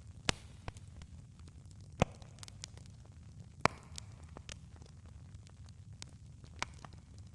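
Campfire crackling: irregular sharp pops and snaps, three of them louder, in the first four seconds, over a steady low rumble from the burning fire.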